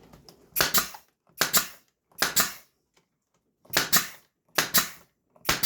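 Six short, sharp bursts, roughly one every 0.8 s, as the painted wooden gnome parts are fastened together.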